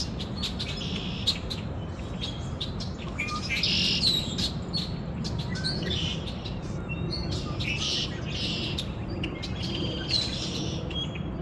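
Small birds chirping, with short clusters of high chirps coming every few seconds over a steady low background rumble.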